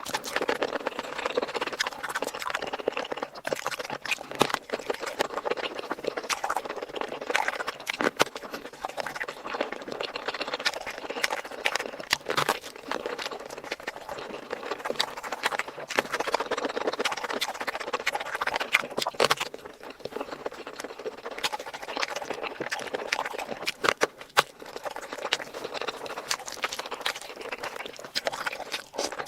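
Close-miked eating sounds: chewing and lip smacking, a dense run of small wet clicks with no pause.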